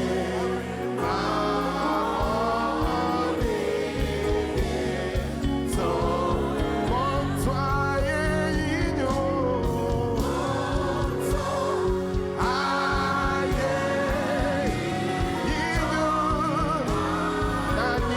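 Gospel worship music with sung vocals over a band, including a choir or backing singers, playing continuously at a steady level.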